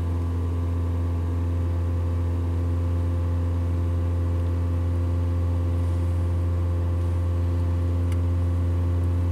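2000 Toyota Camry engine held at a steady raised speed of about 2500 RPM, a constant, even hum, as set for a scan-tool EGR system test.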